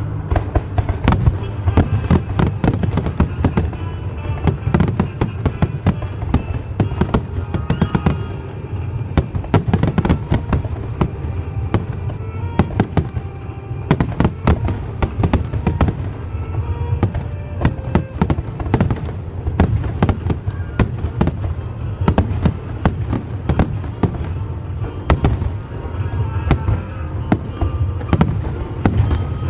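Fireworks bursting in a dense, rapid barrage of bangs, several a second throughout, with music playing along.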